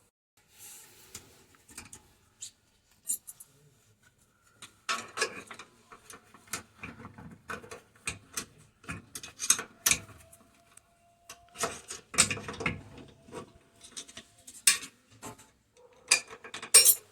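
Irregular clinking and clattering of hard objects, like metal tools and small parts being handled and set down, in scattered clusters with the loudest bursts near the end.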